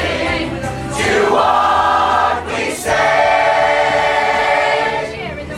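A choir singing a song in harmony, with long held notes.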